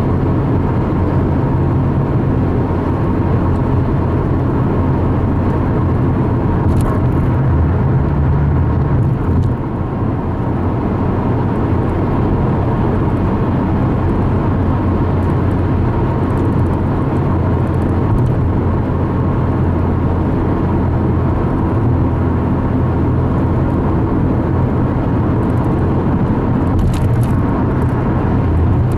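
Steady low rumble of a car's engine and tyres while driving at highway speed.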